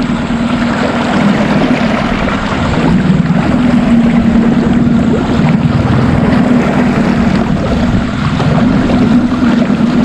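Small boat's motor running steadily at trolling speed, a low even hum, with wind and choppy water noise over it.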